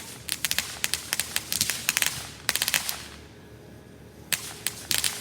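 Small consumer fireworks crackling: rapid, irregular runs of sharp pops like a string of firecrackers, with a pause of about a second past the middle before the popping starts again.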